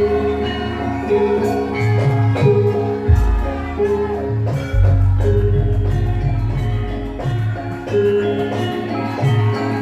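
Javanese gamelan music: struck metal mallet instruments play a repeating melody over deep gong strokes. One deep stroke comes about three seconds in, and another a little later rings on.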